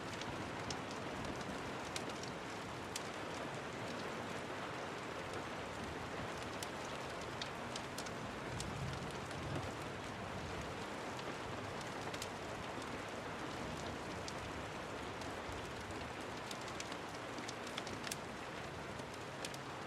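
Steady rain falling, with scattered sharp ticks every second or so.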